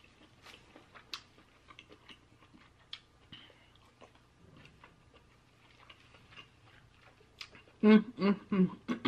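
Faint mouth and eating sounds: small clicks and ticks of chewing crab meat. Near the end comes a short run of voiced sounds from the eater.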